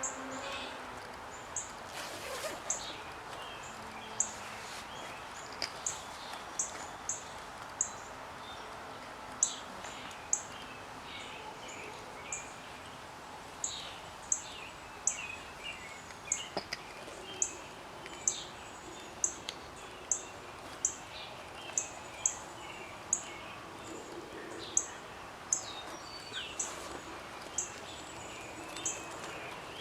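Birds singing, one repeating a short, very high chirp about once or twice a second among other varied calls, over a steady outdoor background hiss.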